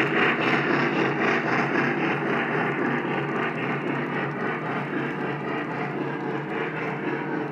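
Lionel O-gauge model train running on track: a steady rolling rumble of wheels and motor that slowly gets a little quieter.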